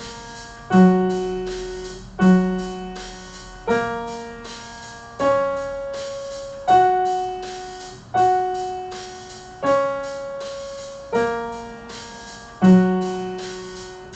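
Piano playing slow, evenly spaced notes, about one every second and a half, each struck and left to ring and fade before the next.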